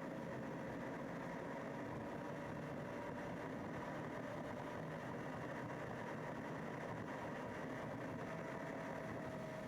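Vehicle engine and road noise while driving: a steady hum with a faint tone that slowly rises in pitch.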